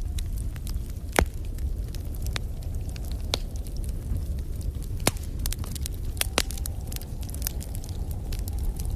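Fire in a fireplace crackling: scattered sharp pops over a steady low rumble, with the loudest pop about a second in and others near five and six and a half seconds.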